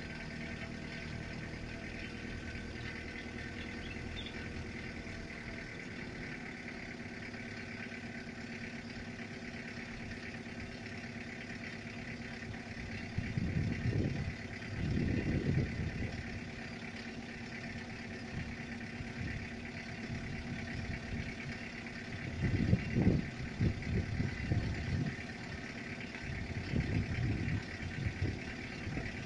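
A vehicle engine idling steadily, with a few louder low rumbling bursts around the middle and in the last few seconds.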